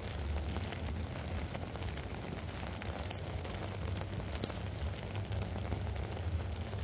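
Steady rain pattering on an umbrella overhead, with many small drop ticks and a low, steady rumble underneath.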